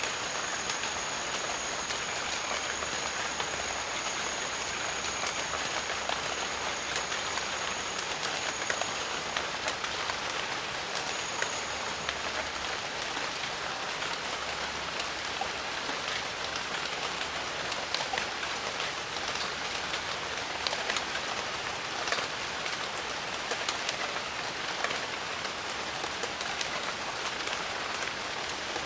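Steady rain falling in a jungle: an even wash of rainfall with many close individual drops ticking through it. A thin, steady high tone runs for about the first nine seconds and returns briefly around eleven seconds.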